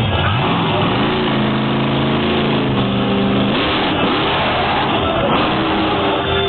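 Monster truck engine revving: the pitch climbs about a second in, holds at high revs for a couple of seconds, then drops away, over a steady wash of noise.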